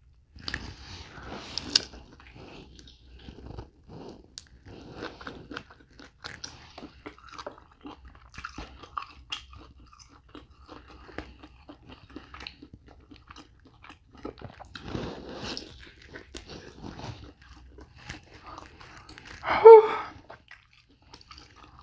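A person biting and chewing lobster tail meat, with irregular small mouth sounds throughout and a brief louder vocal sound near the end.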